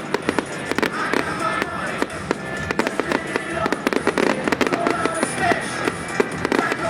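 Fireworks crackling and popping in a dense, continuous stream, with music playing underneath.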